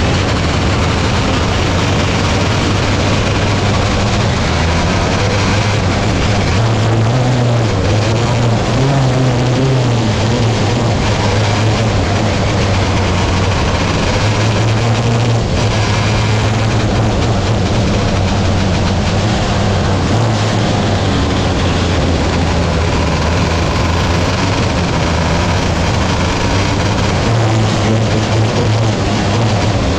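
A 270 micro sprint's engine running hard, its pitch rising and falling a little with the throttle, under a heavy rush of wind and track noise.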